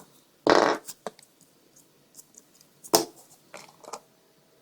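Loose batteries being handled and lifted out of the weight on the glued speaker cone: a short clattering rattle about half a second in, then a sharp click near three seconds and a few light clicks.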